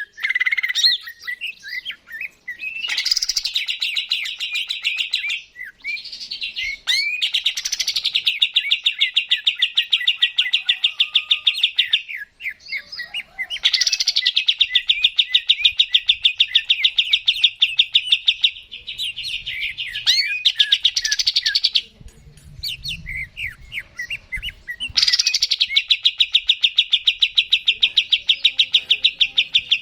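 Cucak ijo (green leafbird) singing: four long, rapid trills of fast repeated notes, each lasting several seconds, with scattered short chirps and whistled notes between them.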